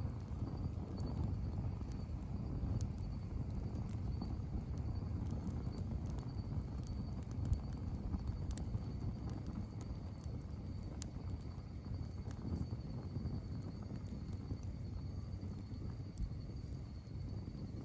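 Campfire burning: a steady low rumble of flames with scattered sharp pops and crackles from the wood, and a faint steady high tone behind.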